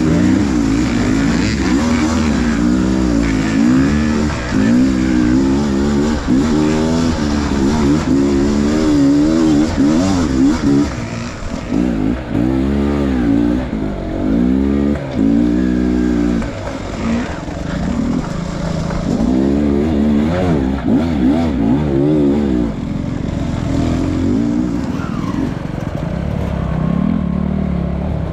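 Enduro dirt bike engine revving up and down repeatedly as the throttle is worked on and off, the pitch rising and falling every second or so.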